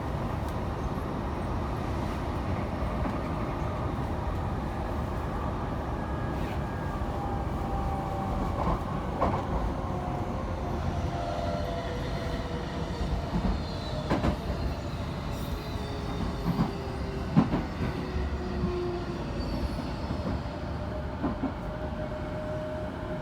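Train running on rails: a steady rumble with irregular rail-joint clicks, and several squealing tones that slowly fall in pitch from about ten seconds in.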